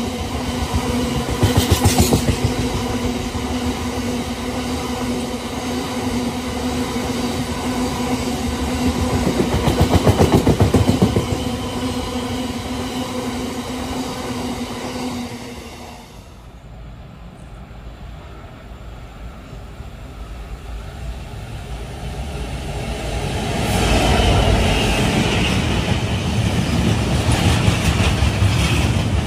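Freight train wagons rolling past: a steady rumble with a held hum, and bursts of rhythmic wheel clatter about 2 and 10 seconds in as the biomass hopper wagons go by. About halfway through it drops away, and a second freight train of open box wagons builds to a louder rumble near the end.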